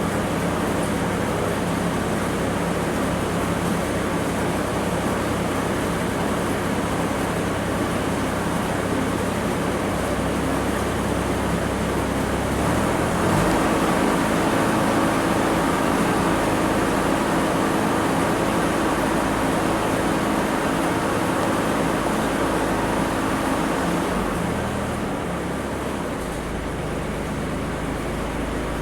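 Ford 1210 compact tractor's three-cylinder diesel engine running steadily, its note rising and getting a little louder about halfway through, then easing back near the end.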